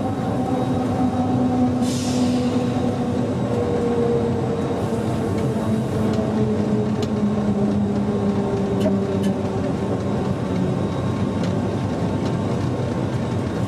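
Electric train running and slowing, its motor whine falling slowly in pitch over steady running noise. There is a short hiss about two seconds in and a few faint clicks later on.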